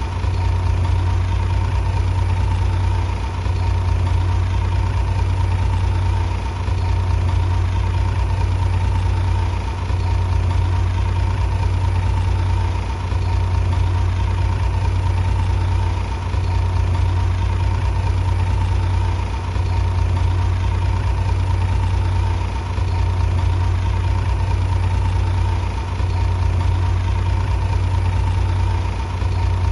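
Heavy diesel engine running steadily at idle: a low, even drone with a faint steady whine above it, dipping slightly about every three seconds.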